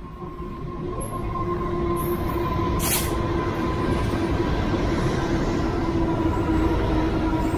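Pacific National NR class diesel-electric locomotives (GE Cv40-9i, 16-cylinder GE engines) hauling a container freight train past at close range. The engine and wheel rumble builds over the first two seconds and then holds steady, carrying a steady hum and a higher whine, with one brief sharp hiss about three seconds in.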